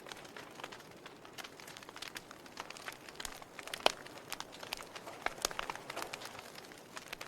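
Campfire crackling: irregular sharp pops and snaps over a soft hiss, with one louder pop about four seconds in.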